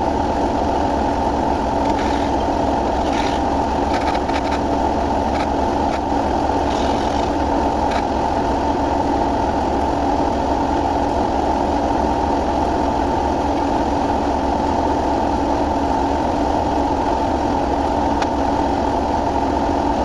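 An engine idling steadily, with a few faint light knocks in the first several seconds.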